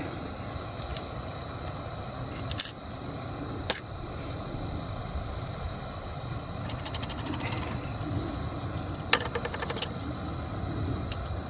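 Water heating close to the boil makes a steady low rush. Over it, small metal and plastic parts click and rattle as they are handled: a few sharp clicks and two short spells of light rattling.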